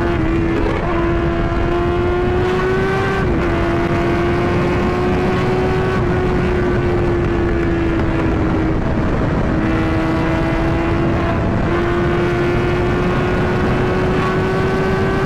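Motorcycle engine running hard at high road speed, one steady high note that climbs slowly and shifts in pitch a few times, over loud wind and road noise.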